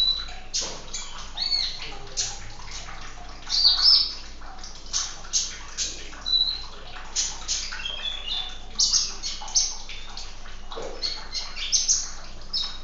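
Small songbirds giving rapid, sharp high chirps and short twittering calls over a steady rush of running water, the water sound of a bird 'therapy' track meant to set caged birds singing. The loudest chirps come a few seconds in.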